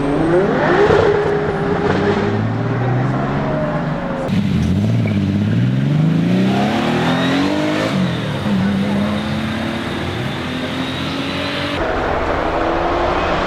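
Flat-six engine of a Kalmar 7-97 Porsche 964 restomod revving hard, its pitch climbing and dropping several times through gear changes. The sound cuts abruptly about four seconds in and again near the end.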